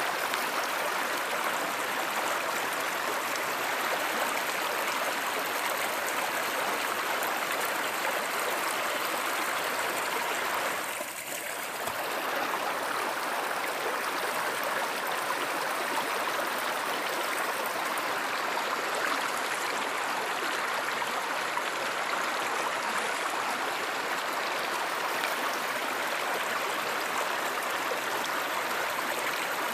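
Stream water flowing steadily, an even rushing sound, with a brief dip in level about eleven seconds in.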